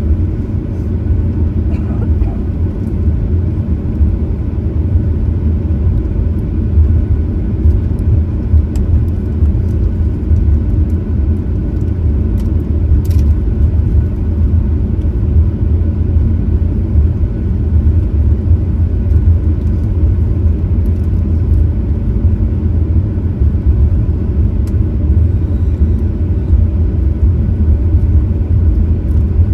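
Steady low rumble of a Boeing 737-900ER's CFM56-7B engines and airframe, heard from inside the passenger cabin while the airliner is under way.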